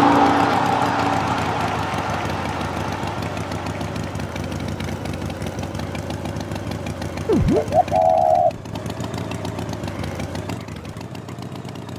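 An engine running steadily with a fast pulsing chug, a hissy burst fading out over the first couple of seconds. About seven and a half seconds in, a quick swooping whistle is followed by a short, high, buzzing toot.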